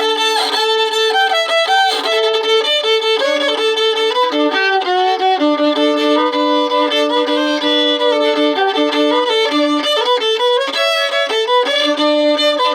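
Solo fiddle, bowed, playing a practice tune aimed at a Cajun sound. It often sounds two notes at once, one held low under a moving melody.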